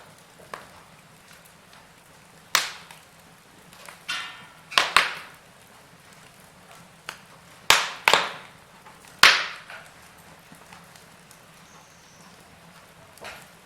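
Wood fire burning in a fireplace, crackling, with about six sharp, loud pops spaced irregularly over a faint steady background.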